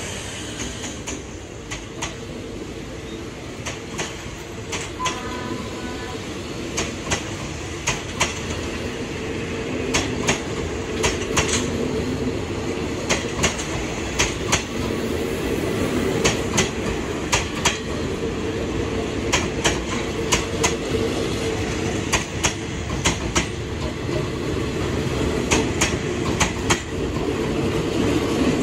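Passenger coaches of a train rolling past over a steady rumble, their wheels clicking over the rail joints, often in pairs as each bogie crosses.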